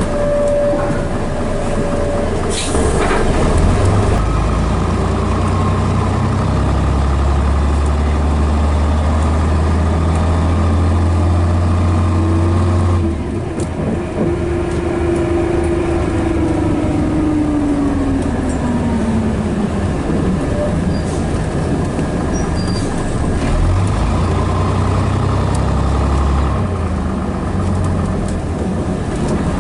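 Scania Metropolitan double-decker bus with a Scania DS11 diesel engine, running under way. A strong low engine note drops away suddenly about thirteen seconds in, and a whine follows that falls steadily in pitch over several seconds.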